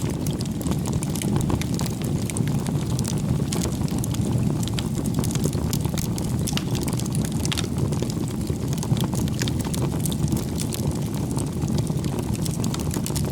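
Firewood bonfire burning: a steady low rumble of flames with frequent sharp crackles and pops from the burning wood.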